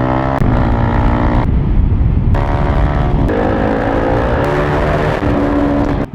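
Motorcycle with a Toce aftermarket exhaust accelerating through the gears. The engine pitch climbs, then drops at each upshift, several times over.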